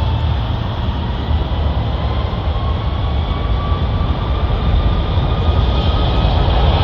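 Airbus A330-300 with Rolls-Royce Trent 700 engines: a heavy, steady jet rumble that grows slowly louder, with a faint whine rising in pitch through the middle.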